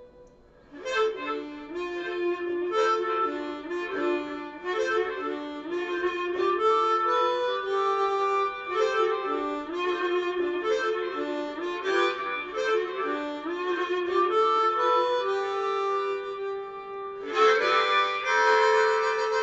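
Harmonica playing an instrumental blues line: a run of short, stepping notes from about a second in, then a louder, fuller chord near the end.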